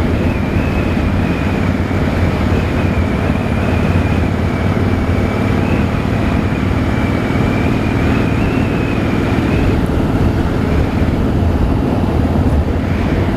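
Harley-Davidson Rocker C's V-twin engine running while the motorcycle is ridden, steady throughout, with a thin high whistle over it that stops about ten seconds in.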